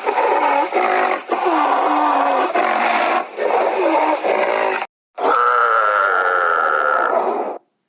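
An animal calling: a run of short calls bending up and down in pitch, then after a brief break a long, steady, high-pitched call that cuts off abruptly.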